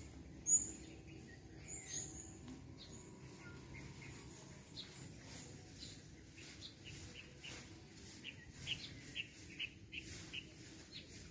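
Small birds chirping: scattered short, high calls, the loudest about half a second in, and a quick run of chirps about two a second near the end, over a steady low background rumble.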